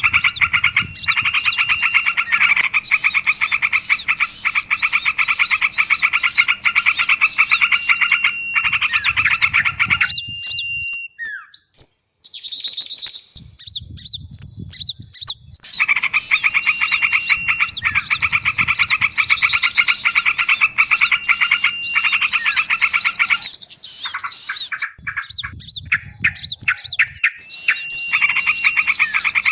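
Bird-lure recording of several small songbirds' agitated calls mixed together: dense, rapid chattering and trilling notes, with two short breaks where only scattered sharp notes sound.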